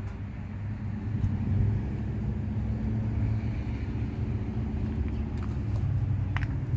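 Steady low rumble of a motor vehicle running, with a sharp click near the end.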